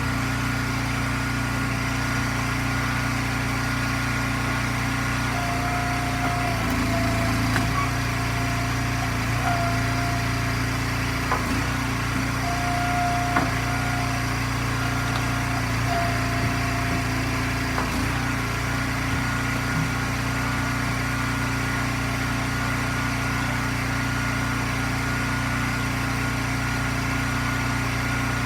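Eastonmade log splitter's engine running steadily. From about 6 to 18 seconds in, it comes under load in several spurts with a higher whine and a few sharp knocks as rounds of ash are split, then settles back to steady running.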